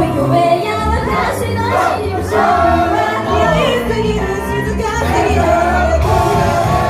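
Live idol-pop performance recorded from the audience on a phone: female voices singing over a loud pop backing track with a steady beat.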